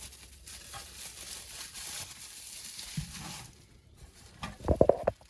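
Rustling and crinkling of packing material as an old tin toy train car is handled out of its box. This is followed near the end by a quick cluster of knocks, the loudest sound.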